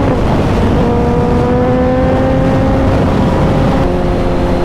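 Suzuki motorcycle engine pulling under throttle, heard onboard with heavy wind rush on the microphone. The note breaks briefly just after the start, as at a gear change, then picks up lower and climbs steadily.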